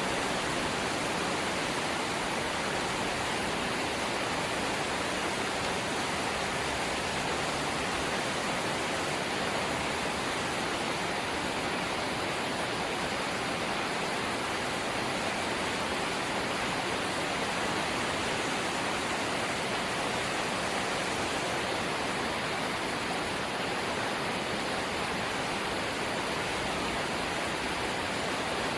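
Light rain falling steadily: an even, unbroken hiss with no separate drops or other events standing out.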